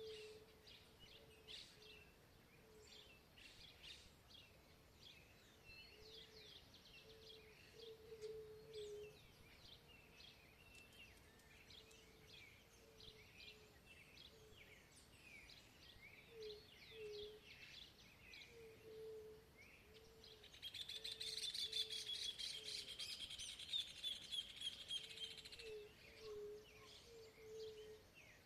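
Several wild birds singing and chirping, faint, with a low short note repeating about once a second underneath. About twenty seconds in, a rapid, dense chattering trill sets in for some five seconds and is the loudest part.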